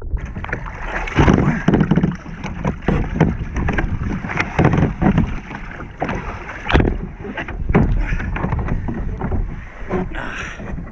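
Water splashing and sloshing around a kayak in surf, in irregular rushes, with wind buffeting the microphone.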